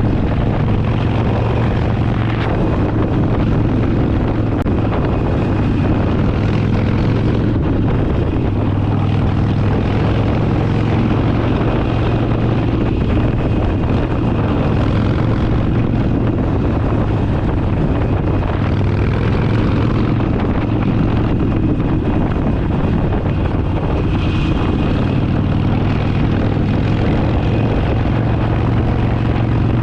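Harley-Davidson Forty Eight's air-cooled V-twin engine running steadily under way at an even cruising speed, with wind rush over the helmet-mounted microphone.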